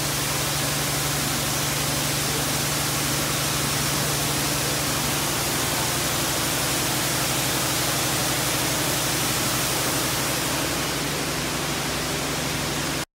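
Steady, loud rush of heavy rain or pouring water with a low steady hum underneath, cutting off abruptly near the end.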